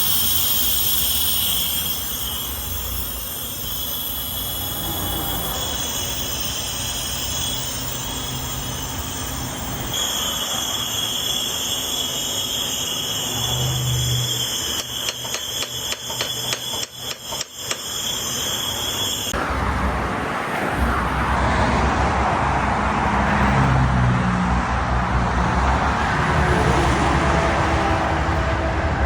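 Vehicle and road noise: a low engine rumble with a steady high whine, then, after an abrupt change about two-thirds of the way in, a steady rush of road traffic.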